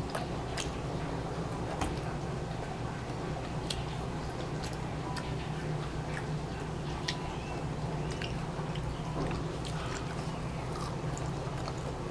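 Close-up eating sounds: soft mouth clicks and crunches of chewing a burger and biting fried onion rings, scattered irregularly over a steady low hum.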